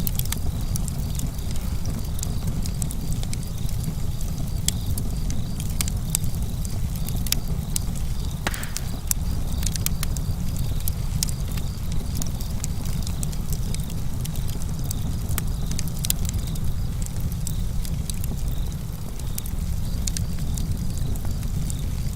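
Campfire crackling, with frequent sharp pops and snaps over a steady low rumble, and a brief hiss about eight seconds in.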